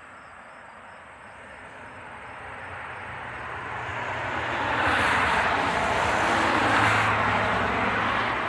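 Engine noise of a passing vehicle, with a low steady hum, growing louder over about five seconds and then easing off as it goes by.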